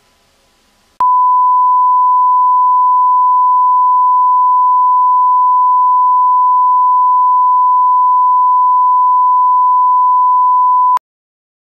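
A loud electronic beep: one pure, steady tone that starts suddenly about a second in, holds the same pitch for about ten seconds, and cuts off sharply near the end.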